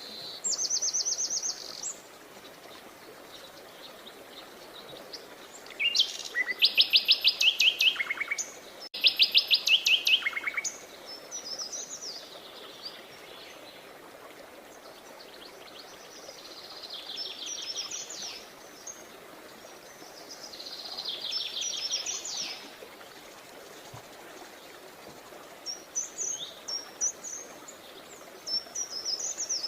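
Songbirds singing: several fast trills of evenly repeated high notes, the loudest a pair of phrases about six to ten seconds in, with quieter trills later and short chirps near the end, over a steady faint hiss of outdoor background noise.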